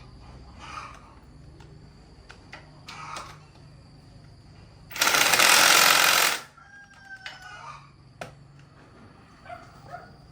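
A rooster crows once, loud and harsh, about five seconds in. Fainter scattered animal calls and a thin steady high insect-like tone lie beneath.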